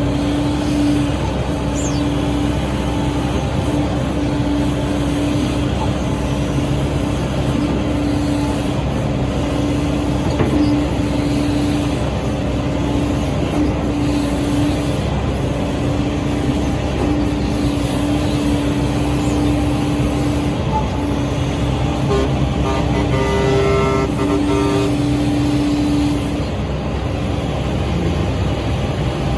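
SANY SY135C excavator's diesel engine and hydraulics working under load while digging, with a steady whine that cuts in and out repeatedly as the controls are worked. A brief higher-pitched sound of several tones comes about three-quarters of the way through.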